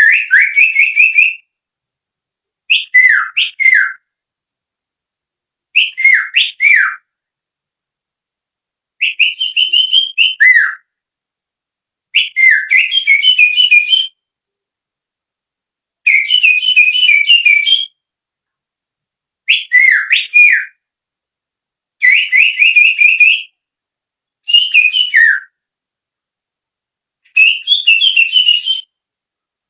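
A person whistling through the little finger in imitation of a sirtu's birdsong. It comes as short phrases of quick rising and falling whistled notes, about nine of them, each a second or two long, with silent gaps between.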